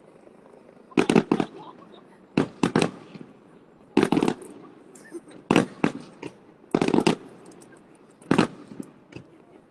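Aerial fireworks shells bursting: groups of two or three sharp bangs about every second or so, with faint crackling between them.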